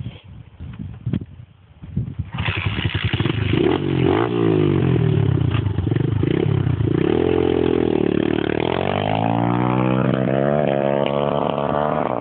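A 150cc pit bike's single-cylinder engine comes in suddenly about two seconds in, after a few knocks. It then revs up and down as the bike is ridden, climbing steadily in pitch near the end as it accelerates.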